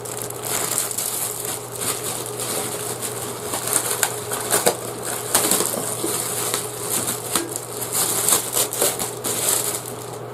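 Packaging crinkling and rustling as a thick iron frying pan is unwrapped, with many small sharp clicks and crackles throughout.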